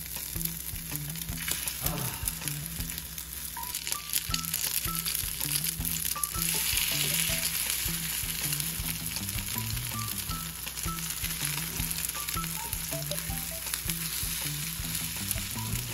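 Oyster mushroom pancakes (beoseot-jeon) sizzling and crackling in oil in a frying pan. The sizzle swells for a few seconds about six seconds in. Soft background music with a slow low melody plays underneath.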